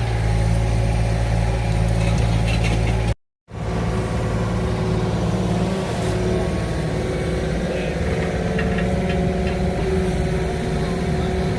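Excavator engine running steadily, briefly cut off for a moment about three seconds in, with faint scattered clicks over it.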